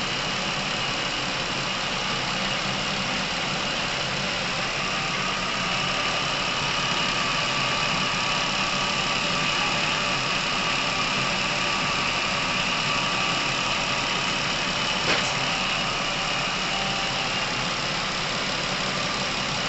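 Chevrolet Epica engine idling steadily, running quieter now that a Dimexide flush has cleared clogged oil passages and the top-end noise has eased. A single sharp click about three-quarters of the way through.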